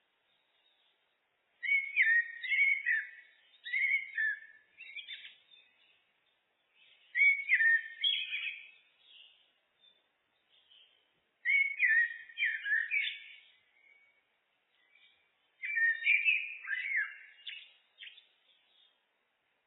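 Common blackbird (Turdus merula) singing: four warbled fluting phrases, each a few seconds long, with pauses of a second or two between them.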